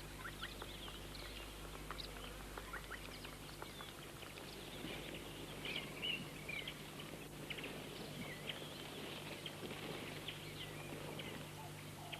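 Faint bush ambience of scattered short bird chirps and calls over a low steady hum.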